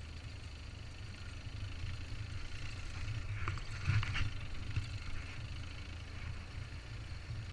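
Motorcycle engines idling faintly, a low steady rumble, with a few light clicks and rattles about halfway through.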